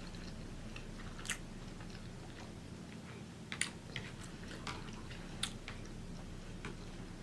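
A person chewing food close to the microphone, with scattered sharp wet mouth clicks and crunches.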